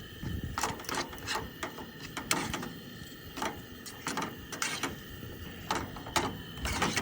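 A utensil scraping and tapping in a pan in short irregular strokes, stirring the steak and cheese together as the mozzarella melts.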